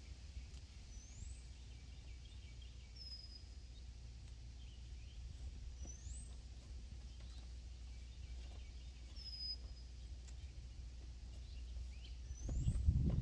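A songbird whistling clear single notes, alternating a short falling note and a rising note every couple of seconds, over a steady low outdoor rumble. Near the end a louder low rustling noise comes in.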